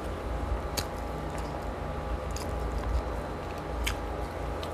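A person chewing food close to the microphone, with a few sharp, wet mouth clicks about a second and a half apart.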